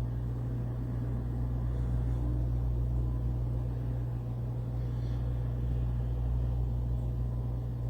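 Steady low rumble of a vehicle running, even throughout with no changes.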